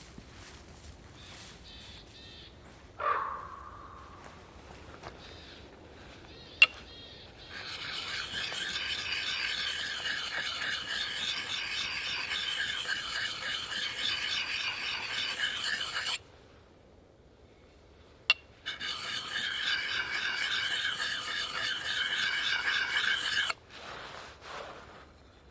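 Steady rasping scrape in two long stretches, each ending abruptly, with a sharp click shortly before the first.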